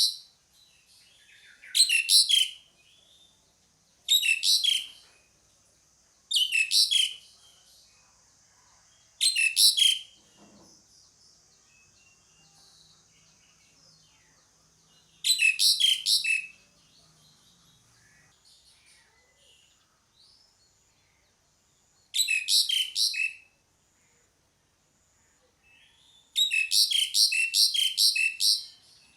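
Asian pied starling (jalak suren) calling: short bursts of quickly repeated shrill, chattering notes, each about a second long, seven times, with the last burst running longer, about three seconds.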